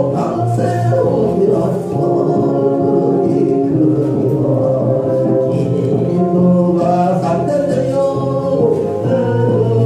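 A Korean Christian praise song: singing over instrumental accompaniment, with held, sustained notes.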